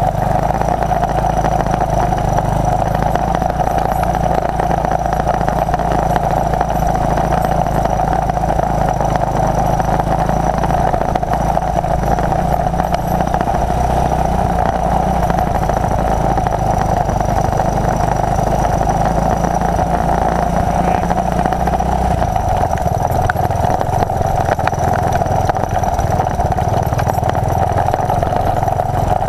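1981 Honda XL185's single-cylinder four-stroke engine running steadily; its low rumble thins out about three quarters of the way through.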